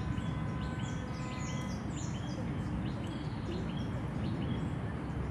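Birds calling from the trees, a short high note repeated about twice a second, over a steady low background rumble.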